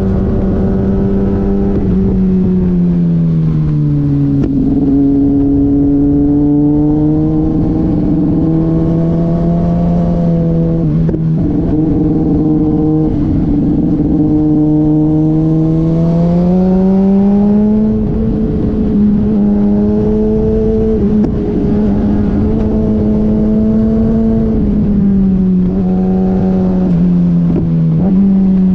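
Motorcycle engine running hard while being ridden, its pitch holding, dropping and climbing again as the throttle and gears change, with a low rush of wind noise underneath.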